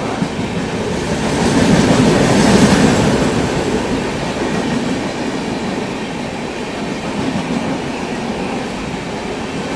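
Express train of passenger coaches running through a station without stopping: a steady rush of wheels on rail with clickety-clack, loudest about two seconds in.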